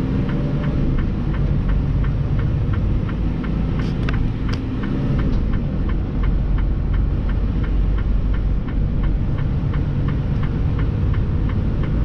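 A semi-truck's engine runs with a steady low rumble, heard from inside the cab. A regular ticking comes through about four times a second.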